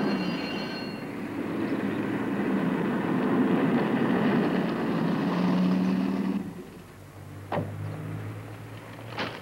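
A motor vehicle running, which stops suddenly about six seconds in. Two sharp knocks follow.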